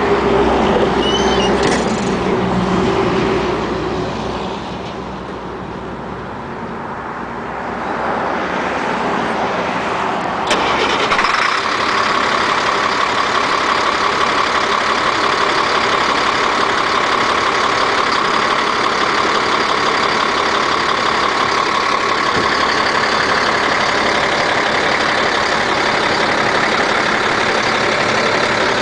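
Caterpillar 3126 diesel engine of a service truck starting up and running. About ten seconds in there is a click, and a steady, higher running sound with a whine takes over.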